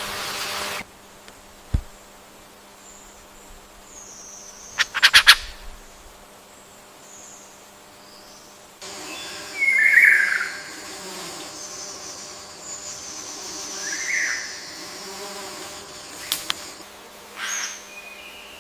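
Forest ambience with scattered bird calls: faint high whistles, a quick rattling run of notes about five seconds in, and short calls about ten and fourteen seconds in.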